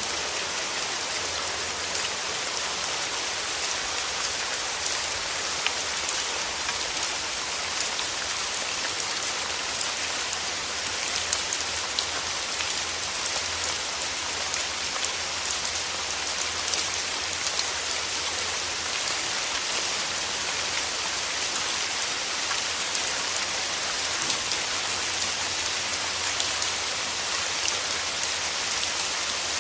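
Steady rain falling, a constant hiss with many small drops ticking on surfaces.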